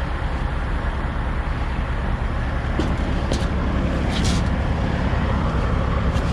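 Semi truck's diesel engine idling with a steady low rumble, with a few short scuffs and knocks in between.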